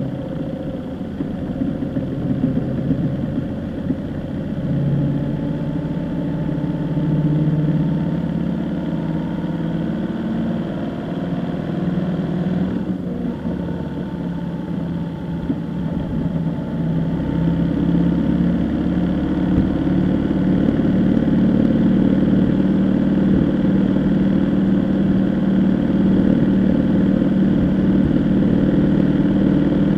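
A vehicle's engine running continuously, its pitch rising and easing; it grows somewhat louder in the second half.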